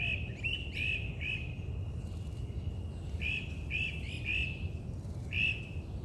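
A bird calling a series of short chirps, each rising then falling, about two a second, with a pause in the middle before the calls resume.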